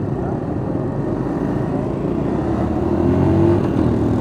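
Road traffic: a vehicle engine running with steady road noise, its pitch rising gently in the second half as it accelerates.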